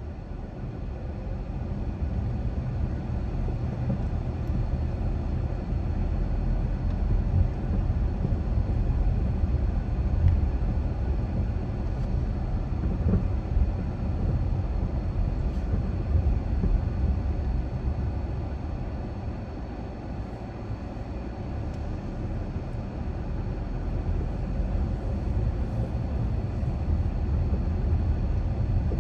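A car driving at low speed, with a steady low rumble of road and engine noise that swells and eases slightly as it goes, easing about two-thirds of the way through.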